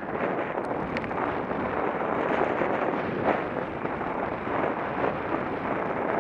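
Steady wind rushing over an action camera's microphone on a moving bicycle.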